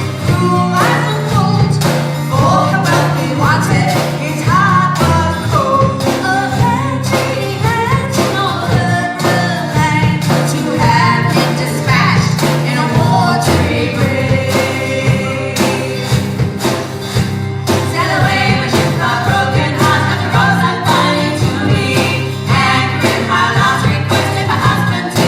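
A band playing a song live, with a lead vocal over a steady drum beat.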